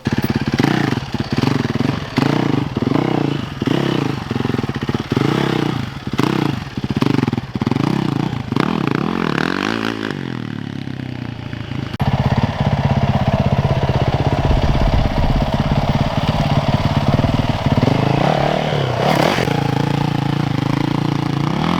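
Yamaha YZ450FX single-cylinder four-stroke dirt bike engine revving up and down in quick repeated blips, several times a second, for about ten seconds. After a cut, it runs at steadier revs with a brief rev-up near the end.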